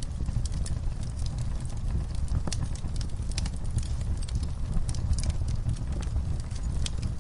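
Wood fire burning with a steady low rumble and irregular sharp crackles and pops of the burning logs.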